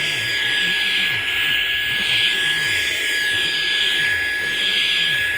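Handheld bed and upholstery vacuum cleaner running steadily: a constant high motor whine over a rush of air.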